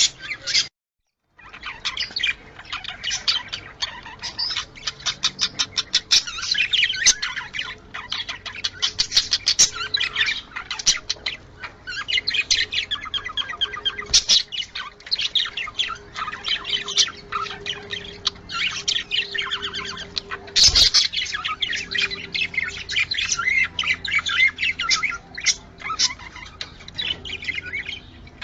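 Budgerigars chattering and warbling nonstop, a dense run of quick chirps, trills and harsh squawks, broken by a brief total silence about a second in.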